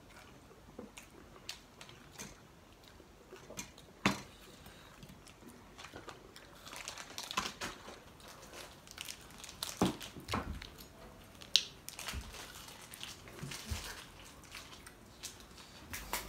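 Close-up eating sounds: people biting and chewing crunchy food, with irregular crunches and a few sharp clicks, the loudest about four, ten and eleven and a half seconds in.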